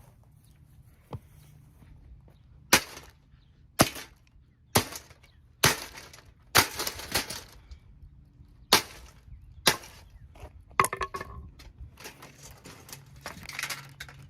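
Plastic Holmes box fan being smashed: about eight hard blows, roughly one a second, with plastic cracking, then a few seconds of crackling and clattering of broken pieces near the end.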